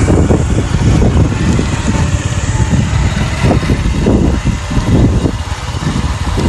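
Motorcycle engine running while riding, with a loud, uneven low rumble from wind hitting the microphone.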